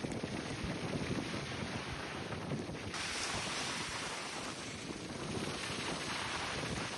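Strong gale-force wind blowing over the microphone, a steady rushing hiss that changes abruptly about three seconds in and turns brighter.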